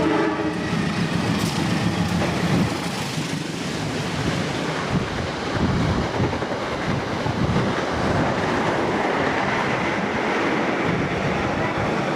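Freight train rolling past: the wagons' wheels run on the rails with a steady rumble.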